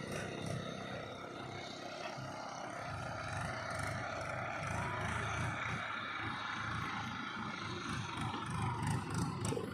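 Diesel engine of a JCB 3DX backhoe loader running steadily as it works, with a higher whine above the engine drone. A few sharp clicks come near the end.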